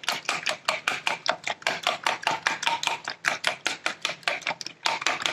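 Eggs being beaten fast in a bowl, the utensil clicking against the bowl about six or seven times a second in a steady rhythm.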